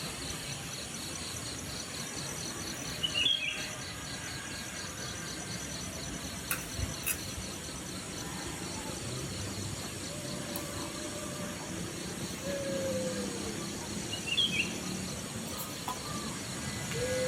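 Outdoor ambience of steady, evenly pulsing insect chirring, with a bird chirping briefly twice, about three seconds in and again near the end. There are two sharp clicks near the middle.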